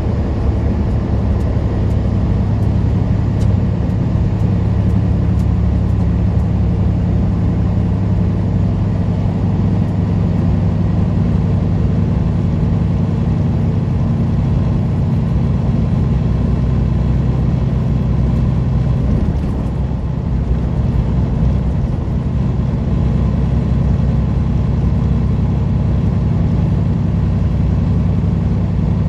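Semi-truck diesel engine running steadily under road noise, heard from inside the cab. A series of light, regular ticks sounds over the first several seconds, and the level dips briefly about twenty seconds in.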